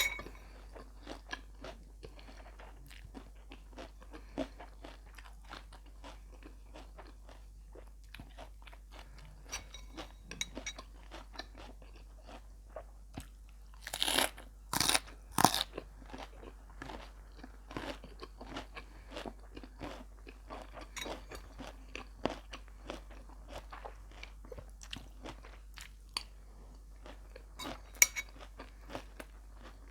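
A person chewing and crunching food close to the microphone, a steady run of small wet clicks with a few louder crunches about halfway through and again near the end.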